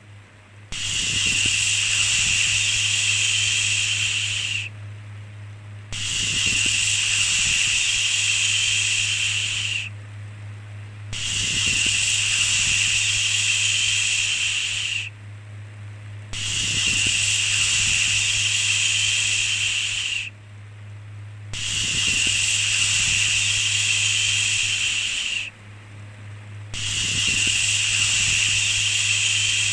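A long, steady 'shhh' shushing hiss, repeated six times: about four seconds on, then a brief pause, in an even rhythm roughly every five seconds. Under it runs a faint steady low hum.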